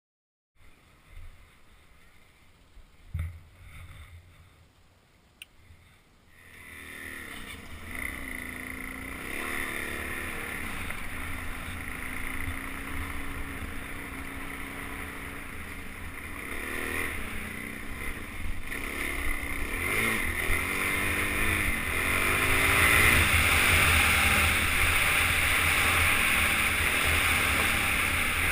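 Suzuki DR-Z400 single-cylinder four-stroke dirt bike engine pulling away and riding a trail. It rises and falls in pitch as the throttle is worked through the gears, getting louder towards the end, with a couple of knocks in the quiet first few seconds before the engine comes in.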